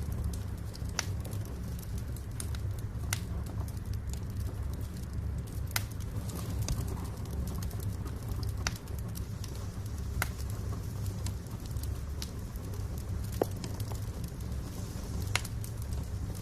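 Wood fire burning in a fireplace: a steady low rumble with irregular sharp crackles and pops of burning logs, a few seconds apart.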